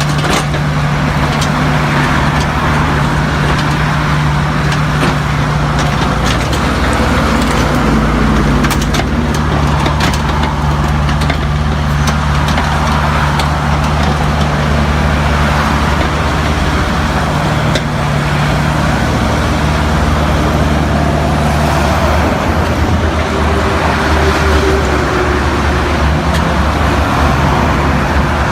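Large diesel engine of heavy earth-moving machinery running steadily, with a few sharp knocks partway through.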